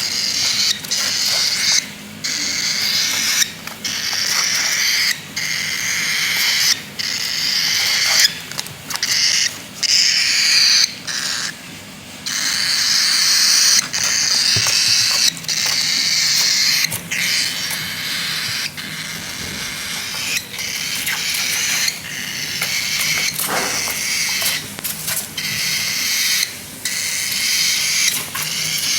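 Baby cockatiel giving rough, raspy begging calls in long repeated bouts, each broken off by brief pauses.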